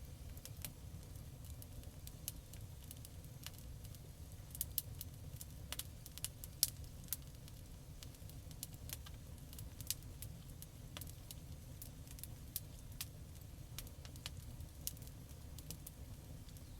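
Campfire crackling: irregular sharp pops and snaps over a steady low rumble of the burning fire, with a cluster of louder pops about five to seven seconds in.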